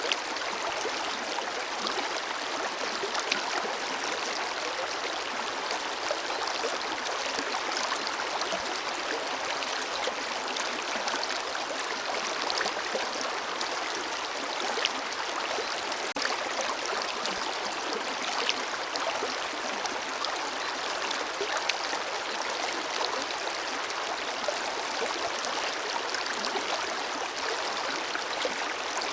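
Forest river flowing over rocks: a steady rush of running water with small splashes and gurgles scattered through it.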